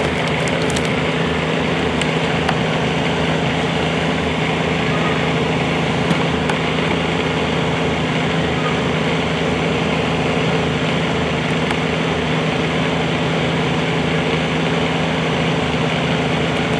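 Bobcat 320 mini excavator's diesel engine running at a steady speed.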